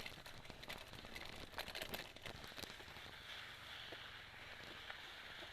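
Element Spy 2.0 mountain bike rattling and clattering as it rides over a bumpy dirt trail, then rolling on with a steady hiss for the last few seconds.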